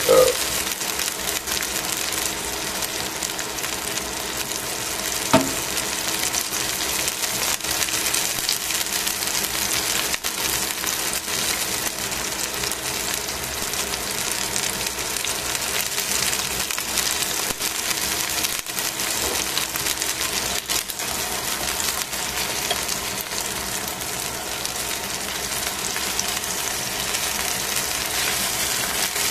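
Chicken wing pieces sizzling steadily as they fry in a stainless steel pan, with two short sharp knocks: one right at the start and one about five seconds in.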